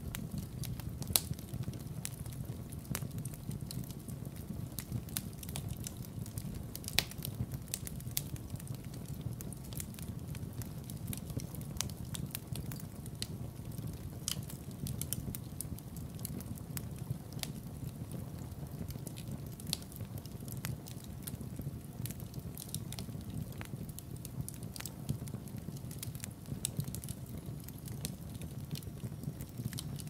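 Wood fire burning in a fireplace: a steady low rumble of flames with scattered crackles and pops from the logs, two sharper pops about one and seven seconds in.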